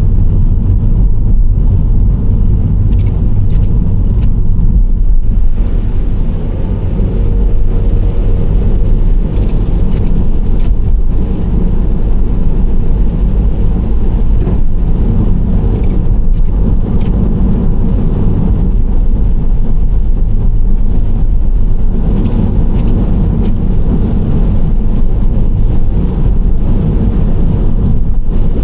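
Nissan Serena C25 minivan driving at a steady speed: a continuous low rumble of tyres and engine.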